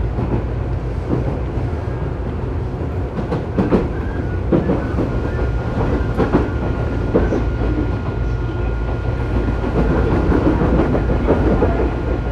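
Tobu 9000 series commuter train heard from inside a car: a steady low rumble with irregular wheel clatter over the rails. A thin steady whine joins about five seconds in.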